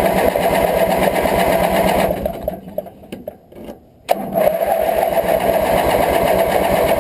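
Electric starter cranking the cold Briggs & Stratton twin of a Craftsman GT18 garden tractor in a fast, even rhythm. It stops about two seconds in, then a sharp click near the four-second mark and the cranking starts again.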